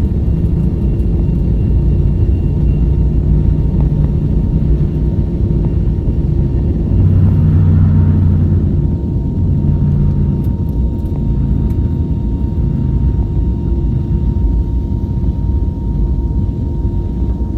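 Airbus A321neo engine and airflow noise heard inside the passenger cabin: a steady loud rumble with a faint steady whine. The rumble swells briefly about seven seconds in, and a thin high tone joins about a second later.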